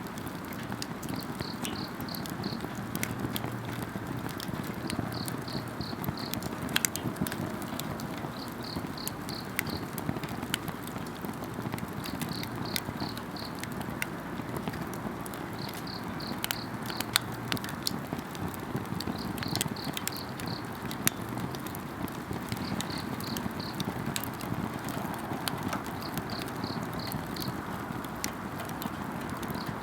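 Wood campfire crackling and popping with many sharp snaps over a steady low rush of flame, while a night insect chirps in short rapid trills that repeat every three to four seconds.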